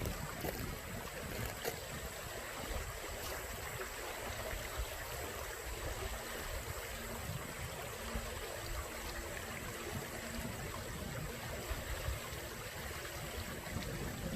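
Water running steadily in a small creek-like irrigation ditch, with wind rumbling on the microphone.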